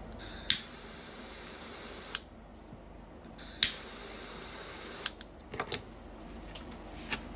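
A handful of short, sharp clicks or taps, irregularly spaced, the loudest about half a second in and again after three and a half seconds, over a faint steady background hiss.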